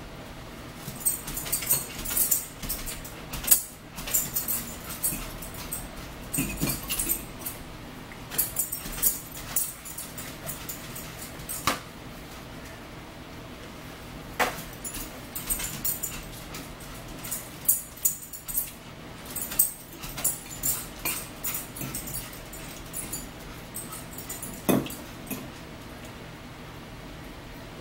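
Close-up chewing of salad, heard as repeated crackly crunching bursts with short pauses between them. Now and then a fork clicks against a bowl.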